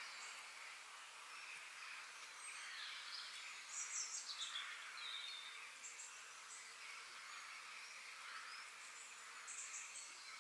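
Faint forest ambience: a steady background hiss with small birds calling over it. There is a quick run of high chirps about four seconds in, followed by a short falling whistle, and another rapid run of chirps near the end.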